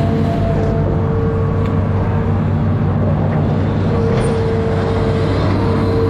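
Amphibious excavator's diesel engine running steadily, with a steady whine held over the engine note.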